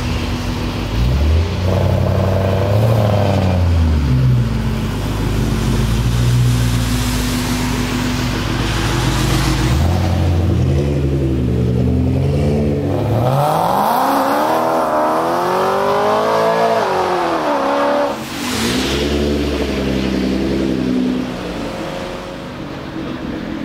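BMW E92 M3's 4.0-litre V8 through a decatted SuperSprint exhaust with X-pipe and race mufflers, revved hard several times. About two-thirds of the way through comes one long rev that climbs steeply and then drops, followed by a short sharp crack.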